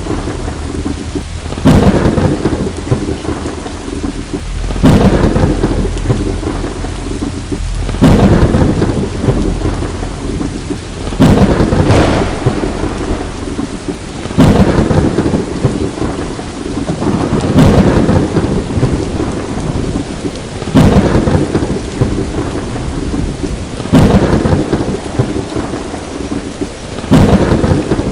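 Thunderstorm: steady heavy rain with a sharp thunder crack and rumble breaking in about every three seconds, each fading back into the rain.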